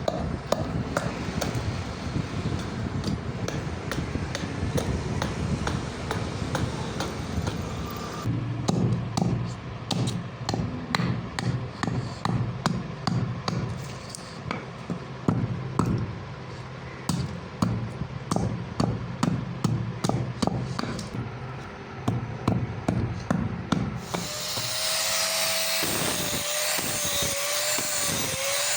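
Hammer blows on steel being forged, irregular and sometimes in quick runs. About 24 seconds in, a steady machine noise with a wavering whine takes over, with a few strikes still heard.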